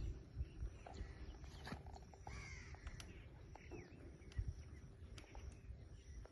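Parrot giving a few short, faint calls that slide in pitch, about two to four seconds in, among scattered clicks.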